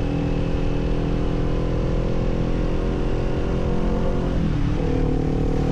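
Kawasaki Z400's parallel-twin engine running steadily under way. The engine note briefly dips about four and a half seconds in and then picks up again.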